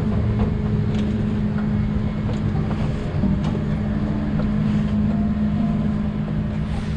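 Boeing 787-10 economy cabin noise after landing: a steady low drone with a held hum, and a few faint clicks over it.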